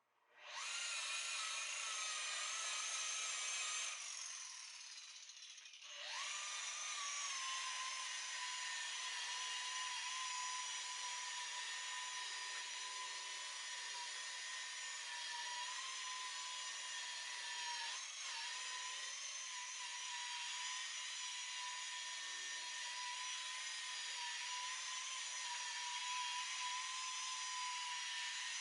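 Electric rotary buffer's motor whining at a steady speed; about four seconds in it slows and drops away, then spins back up about two seconds later and runs steadily on.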